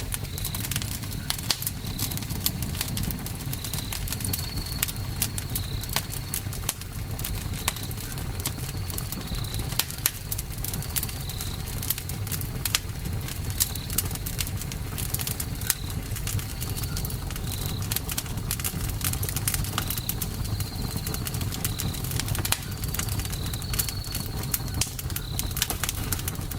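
Campfire burning: wood crackling and popping in many sharp, irregular clicks over a low, steady rumble of flames. Short high chirps recur every second or two behind it.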